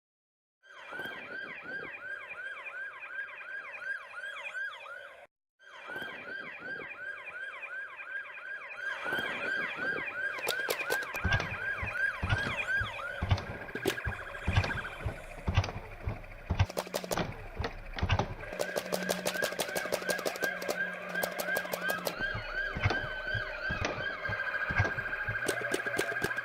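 Police siren yelping rapidly, cutting out briefly about five seconds in. From about nine seconds more siren sound layers in, with a slower wail near the end, and rapid bursts of sharp clicks about eleven and seventeen seconds in, like a P90-style gel blaster firing on full auto.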